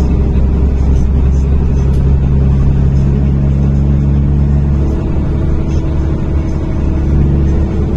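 NefAZ-5299 city bus running between stops, heard from inside the passenger cabin: a steady low engine and drivetrain drone whose pitch changes about five seconds in.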